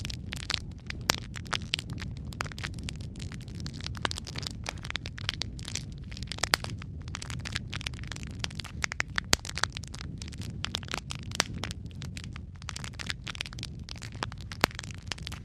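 Wood fire burning in a fireplace: a steady low rumble of the flames with dense, irregular crackling and a few sharper pops from the burning logs.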